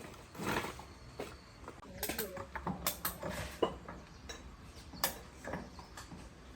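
Irregular light clicks and taps, a few sharper knocks among them, with no steady running machine.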